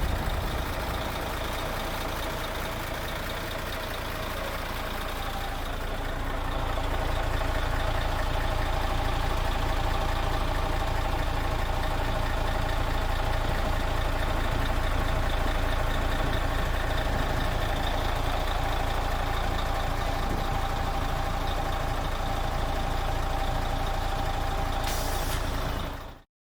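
Mercedes-Benz Actros MP3's V6 diesel engine running steadily, a low rumble with a steady hum, getting louder about six seconds in. A brief hiss sounds near the end before the sound cuts off abruptly.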